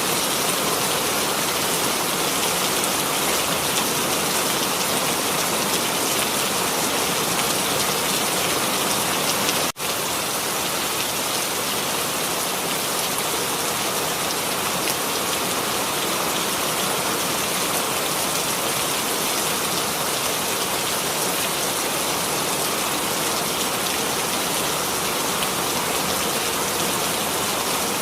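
Steady rain falling, an even hiss of many drops with no distinct patter, which cuts out for an instant about ten seconds in.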